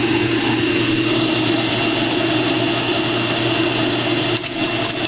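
Electric juicer motor running steadily while juicing beets, carrots and apples, with a steady hum and whine. The sound breaks up briefly near the end.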